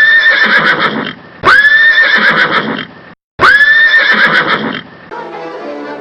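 A recorded horse whinny played three times in a row, each cry identical and about a second and a half long. Music comes in near the end.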